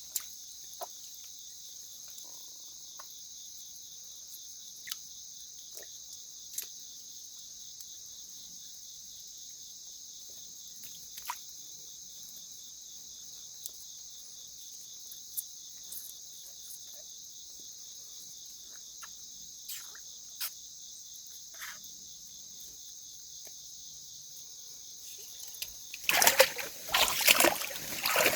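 Steady high-pitched chorus of crickets and other insects, with scattered faint ticks and drips. Near the end, a loud burst of splashing in water for about two seconds.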